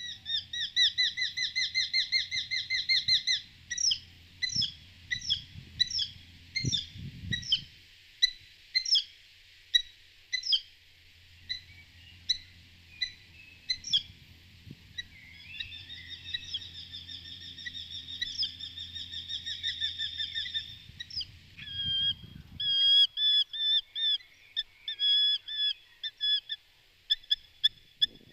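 A bird calling over and over in high, clear notes: a fast trill, then single notes about a second apart, another long trill, and short notes in quick series near the end. A faint low steady hum lies underneath for part of the time.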